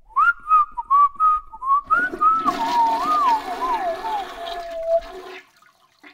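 A person whistling a casual, wandering tune that ends on a drawn-out falling note. Rushing water joins about two seconds in, and both stop about five seconds in.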